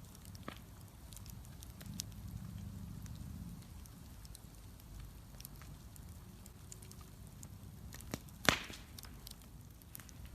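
Bonfire crackling, with scattered small ticks and pops and one sharp, loud pop about eight and a half seconds in.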